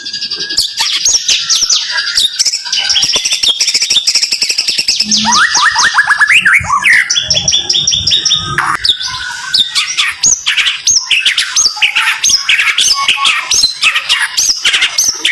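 White-rumped shama (murai batu) singing a fast, dense run of sharp chirps and quick rising whistles, one note hard on the next with barely a break: the rapid-fire 'tembakan' song.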